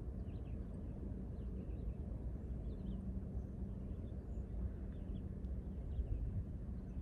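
Steady low outdoor rumble with a faint constant hum, and scattered faint bird chirps over it.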